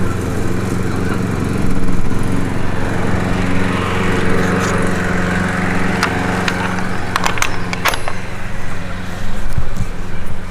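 An engine running steadily at an even pitch, with a few sharp clicks in the second half.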